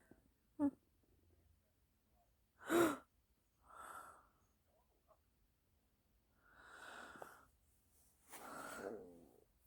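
A person sighing and breathing out audibly, several long breaths in a row, with a short voiced sound about three seconds in.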